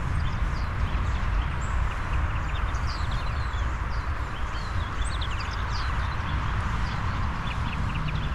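Small birds chirping over and over, short quick calls throughout, over a steady rushing background noise.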